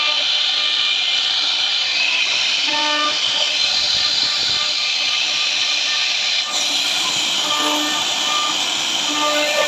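CNC router cutting wood: a loud, steady high hiss of the spindle and cutter, with brief tones as the machine's axes move.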